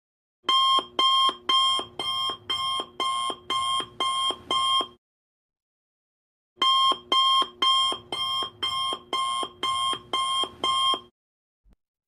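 Alarm clock going off: two runs of about ten rapid beeps, two a second, with a pause of about a second and a half between the runs.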